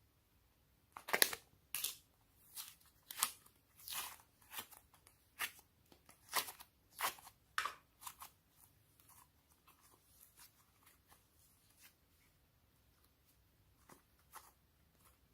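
Homemade slime being squished and stretched by hand, giving a string of sharp, sticky crackles and pops about one or two a second, fading to a few faint ones, then two more near the end.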